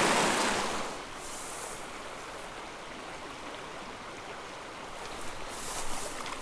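Creek water running, louder for about the first second and then steady and quieter.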